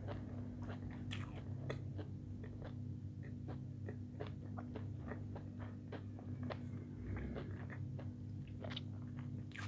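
Close-miked chewing of a mouthful of food: irregular small clicks, crunches and wet mouth sounds, several a second. A steady low hum runs underneath.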